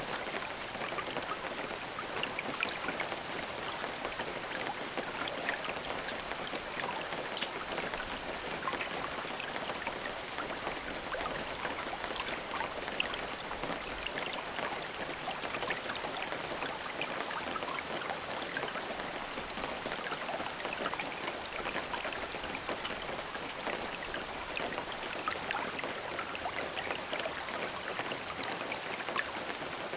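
Steady rain falling, with many individual drops pattering on a surface; even and unbroken, with no thunder.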